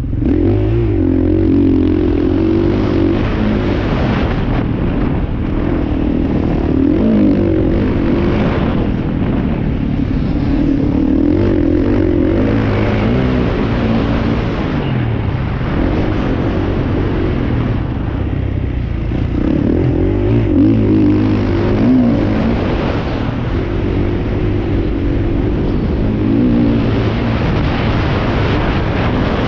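Motocross dirt bike engines running, their note wavering up and down continuously.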